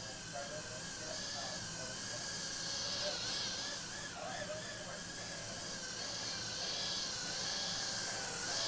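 A 65mm tiny whoop drone's motors whining at high pitch over a steady hiss, the pitch wavering up and down as the throttle changes.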